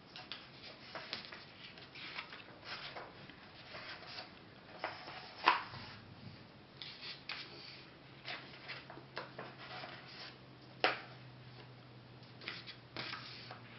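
Paper pages of a coloring book being turned one after another, rustling and swishing, with two sharper, louder page snaps, one about five and a half seconds in and one near eleven seconds.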